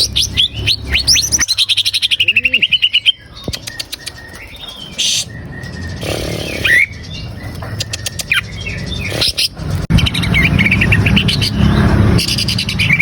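Green leafbird (cucak ijo) singing: quick rising and falling whistled notes running into a rapid trill, then a quieter stretch with scattered chirps, and another fast trill near the end over a low rumble.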